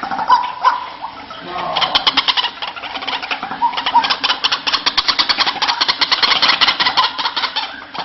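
White-breasted waterhen calling: a few short notes, then from about two seconds in a long, fast run of short, harsh pulses that stops near the end.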